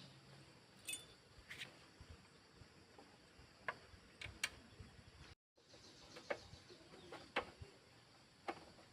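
Sparse, irregular light clicks and taps, about one a second, over a quiet background, with a brief cut to total silence about halfway through.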